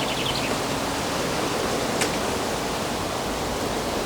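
Steady hiss of a gentle breeze, with a bird's quick high chirps trailing off at the very start and a single sharp click about two seconds in.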